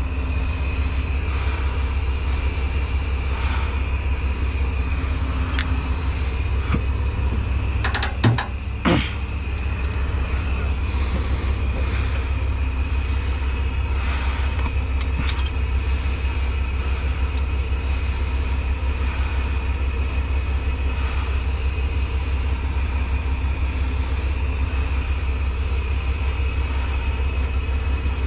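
Heavy diesel truck engine idling with a steady low drone, with a couple of sharp metal knocks about eight and nine seconds in.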